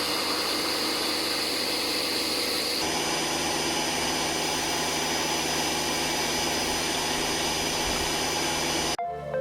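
Electric pressure washer running steadily, its sound changing about three seconds in, then cutting off abruptly near the end.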